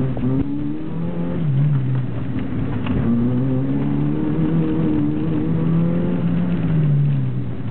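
Chevrolet Cobalt's engine heard from inside the cabin while driven hard through an autocross course. It revs up briefly in the first second and drops back, then climbs steadily from about three seconds in and falls off near the end.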